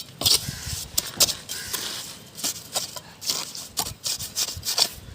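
Irregular sharp clicks and knocks of construction work, several a second, with no steady machine running.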